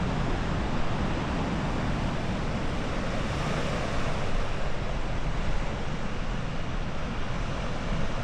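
Steady wind rushing across the microphone, a continuous noise that swells and eases a little without letting up.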